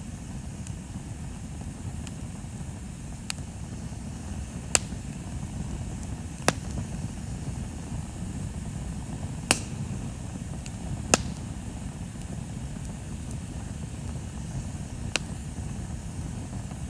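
Wood bonfire burning, with about half a dozen sharp crackling pops at uneven intervals over a steady low rumble.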